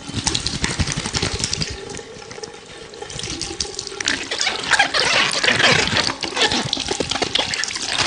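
Water of a small stream splashing and gurgling close to the microphone, a dense crackle of small splashes that grows louder about four seconds in.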